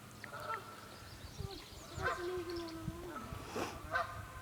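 Canada geese honking, several short calls spread through a few seconds, with the loudest near the end. Faint chirps of small songbirds are heard alongside.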